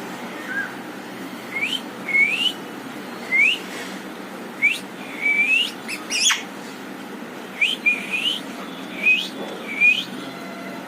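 Parrot whistling: about ten short whistles, each sliding upward in pitch, coming in an uneven series. One sharp, higher squeak about six seconds in.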